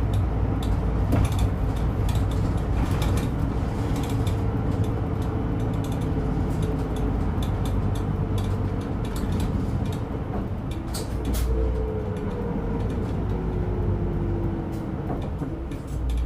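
Route bus running, heard from inside the cabin: a steady engine and road drone with scattered light clicks and rattles from the fittings. In the second half a tone in the engine note slides down in pitch.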